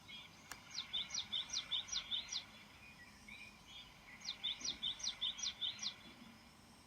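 A small bird singing two phrases, each a run of about five quick, high, down-slurred notes lasting about a second and a half. The second phrase starts about four seconds in.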